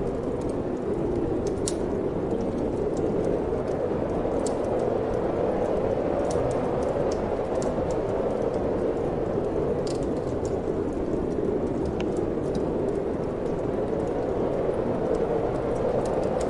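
Steady wind with a wood fire crackling in a fireplace: a constant rushing noise, over which come scattered sharp crackles at irregular intervals.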